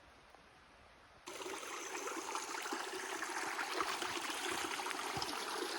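A small stream running, a steady rush of water that starts abruptly about a second in.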